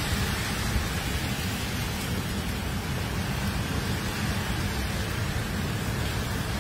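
Heavy rain pouring down steadily, a continuous hiss of rain with a low rumble underneath.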